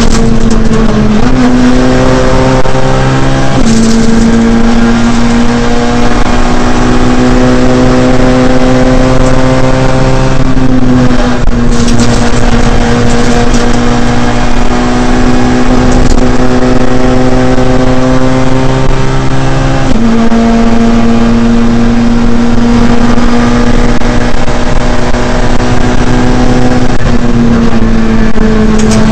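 Ford Fiesta R2 rally car's four-cylinder engine, heard loud from inside the cabin, held at high revs on a rally stage. The pitch holds or creeps up within each gear and steps or dips briefly at each gear change, a handful of times.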